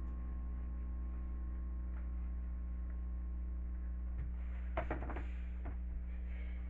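Steady low hum, with a few small clicks and knocks about four to six seconds in.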